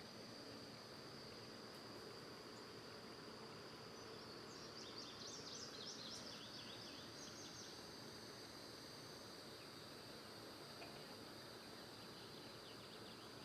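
Faint evening insects, crickets or similar, keeping up a steady high trill, with a short run of quick high chirps about five seconds in.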